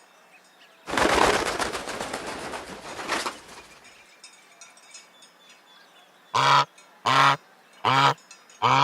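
Goose honking four times, evenly spaced about 0.8 s apart, in the second half. Earlier, about a second in, comes a longer noisy, rapidly pulsing burst lasting about two and a half seconds.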